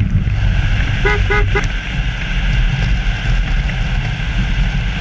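Steady low rush of wind and wheels rolling on asphalt at downhill speed, with three quick, short horn toots about a second in.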